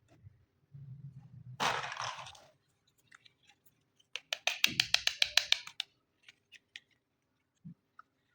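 Small plastic toy kitchen pieces being handled: a short scraping rustle, then a quick run of about a dozen sharp clicks, followed by a few scattered ticks and a soft knock near the end.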